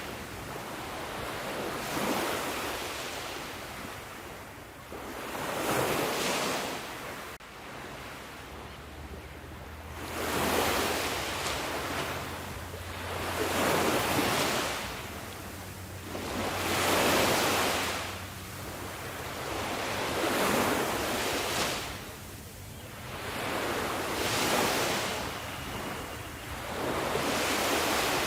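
Sea waves breaking on a shore in a steady cycle, each wash of surf swelling and fading about every three to four seconds.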